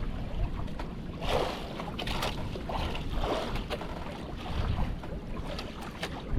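Strong wind buffeting the microphone over water sloshing against a small boat's hull, with a few louder splashes about one, two and three seconds in.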